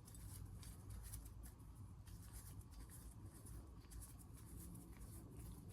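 Near silence with faint small clicks and scratchy rustles of engine parts being handled on a workbench.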